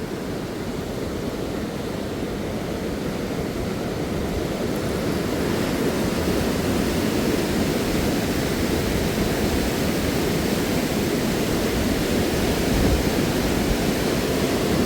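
Rushing whitewater of Huka Falls on the Waikato River: a steady, deep rush of water that slowly grows louder over the first half.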